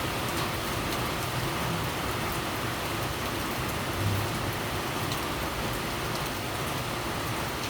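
Steady rain falling, with individual drops ticking, and a brief low thump about four seconds in.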